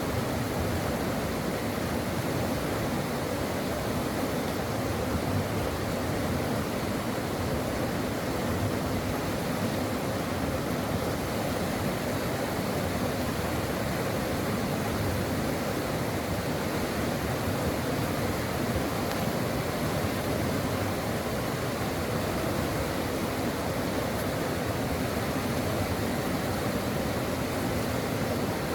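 Stream water rushing and burbling over rocks in a steady, unbroken flow.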